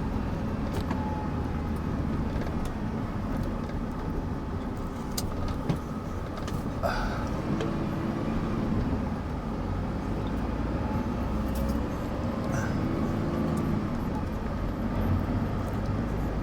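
Delivery truck driving, heard from inside the cab: a steady engine and road rumble with a few light clicks and rattles.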